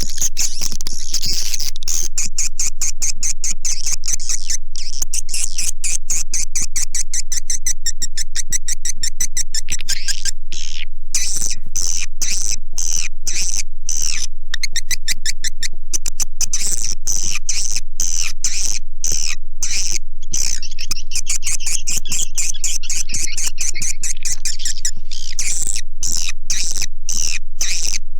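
Swiftlet calls played as a lure sound: a dense, fast, high-pitched chatter of clicks and twittering chirps that keeps going, with short breaks about ten and twenty seconds in.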